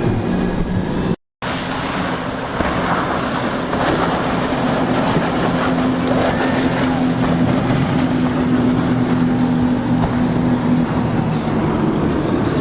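Boat engines running steadily over wind and water noise, with a brief cut to silence about a second in.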